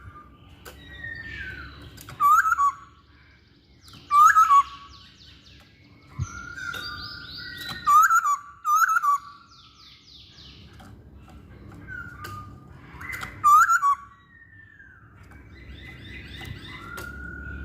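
Masked laughingthrush singing: loud, short whistled notes with a quick rise and fall in pitch, repeated every few seconds, with softer rambling chatter between them.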